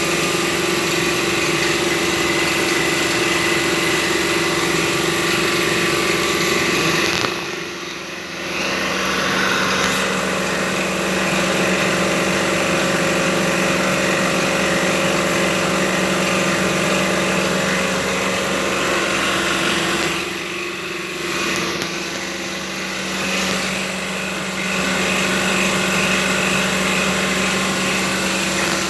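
A machine running steadily with a constant hum over a broad whirring noise; the sound dips briefly twice and comes back.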